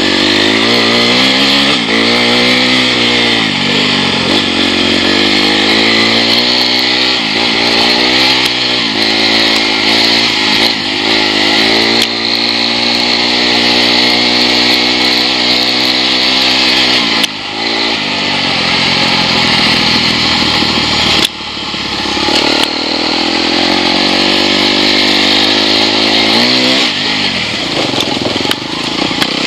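Enduro dirt bike engine heard onboard, revving up and down over and over as the rider works the throttle along a rough trail, with a steady hiss of wind and rattle over it. The throttle is shut off briefly twice in the second half.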